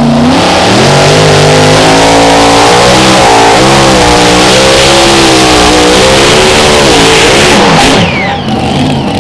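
Mini rod pulling tractor's engine at full throttle during a pull, its pitch wavering up and down. About eight seconds in the engine is throttled back and its sound falls away.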